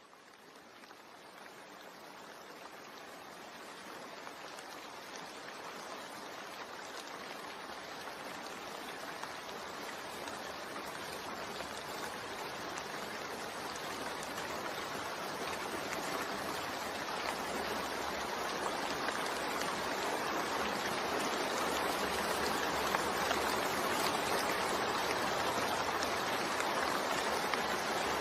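Steady rain falling, a dense even hiss of drops that fades in from silence and grows gradually louder.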